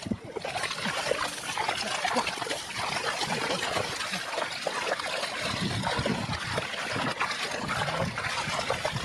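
Shallow muddy water splashing and trickling, with many small irregular sloshes and drips.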